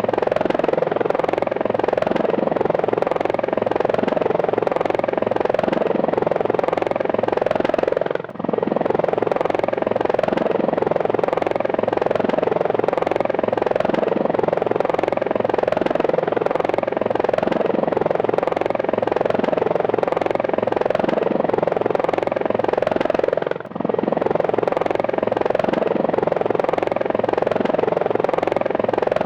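Helicopter in flight with a steady, loud rotor chop. The sound briefly drops out twice, about eight seconds in and again near the last quarter.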